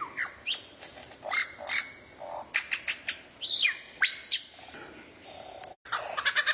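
Recorded songbird song: separate arching whistled chirps mixed with short clicks, then, after a brief break near the end, a different fast, dense chattering trill starts.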